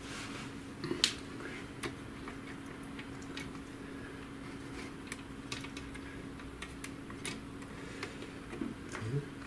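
Scattered small clicks and knocks of plastic parts of an HP DeskJet GT 5820 inkjet printer being handled and worked loose during disassembly, the sharpest about a second in. A faint steady hum runs underneath.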